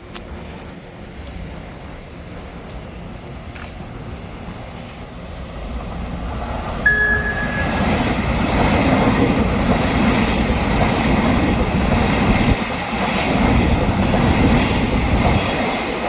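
Taiwan Railway train approaching and running through a station: a low rumble builds, a short high tone sounds about seven seconds in, and the passing train then stays loud and steady.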